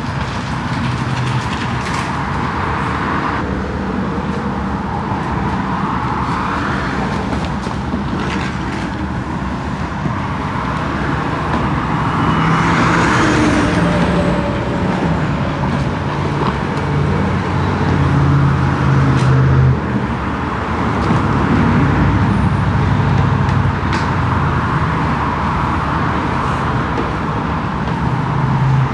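Steady car-wash noise: a machine hum under a rushing spray that swells and fades several times, loudest about halfway through.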